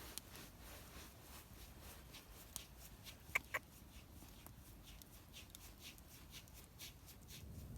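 Wood campfire crackling faintly: scattered small clicks and ticks, with two sharper pops close together about three and a half seconds in.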